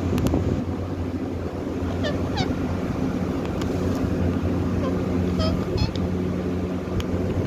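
Pet parrot giving short, high, falling chirps, two pairs a few seconds apart, over a steady low background rumble.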